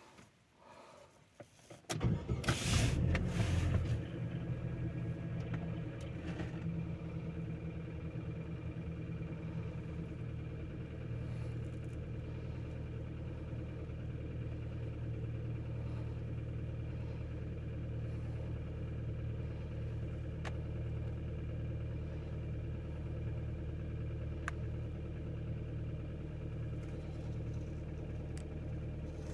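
Opel Astra J 1.6 turbo four-cylinder petrol engine starting from cold at about −5 °C. It catches about two seconds in, flares up high for a couple of seconds, then settles to a steady idle.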